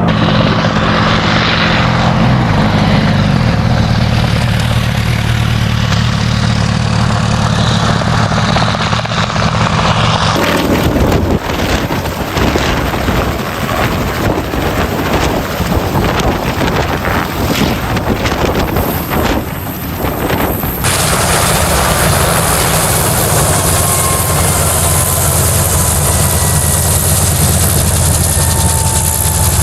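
Sikorsky S-58 helicopter engine and rotor running, heard in three stretches that change abruptly about a third and two-thirds of the way through. The middle stretch has a rapid, choppy beating.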